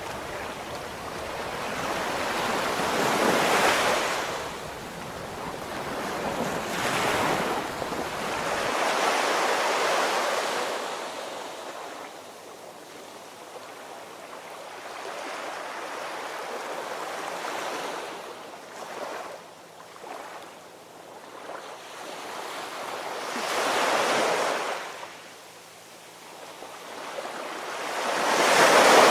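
Ocean surf: waves breaking and washing in, swelling and fading every few seconds, with a quieter lull in the middle and the loudest wave near the end.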